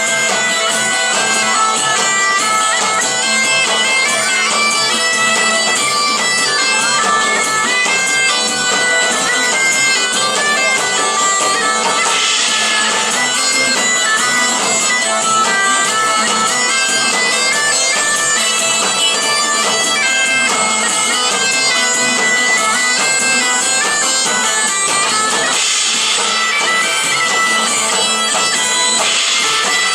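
Live medieval-style band music led by bagpipes playing a melody over a steady drone.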